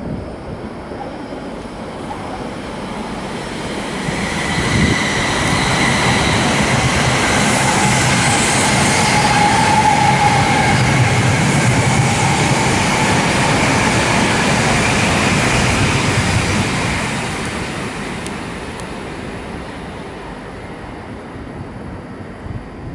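A Shinkansen high-speed train running by on the station tracks. Its rush of noise with a faint whine builds for a few seconds, stays loud for about twelve seconds, then fades away.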